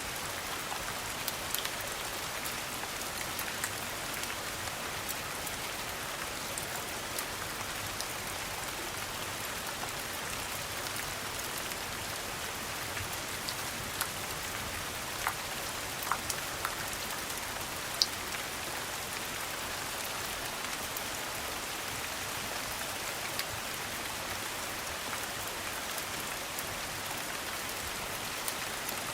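Steady rain falling, an even hiss, with a few scattered sharp pops or ticks standing out from it.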